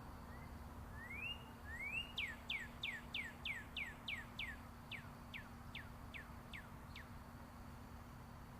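A songbird sings one phrase: two rising whistles, then a run of about a dozen quick falling notes that slow toward the end. Beneath it runs the steady low hum of distant interstate highway traffic.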